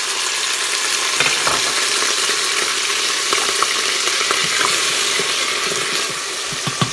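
Ginger and green chillies, wet with a little water, hit hot oil and browned onions in an Instant Pot's stainless steel inner pot and set off a steady, loud sizzle. Scattered clicks and scrapes of stirring run through it, with a few sharper knocks near the end.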